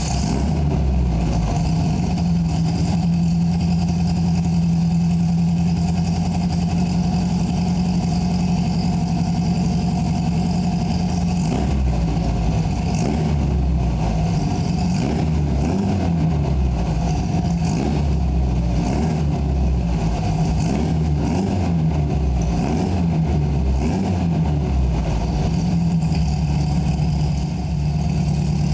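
1964 Porsche 356C's twin-plug 1720cc air-cooled flat-four, breathing through a Sebring exhaust, running just after a cold start. It idles steadily for about eleven seconds, then the throttle is blipped over and over so the revs rise and fall, and it settles back to idle near the end.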